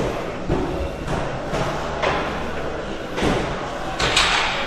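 A series of dull thumps, with the loudest burst about four seconds in, over background music, during a weighted split-squat set.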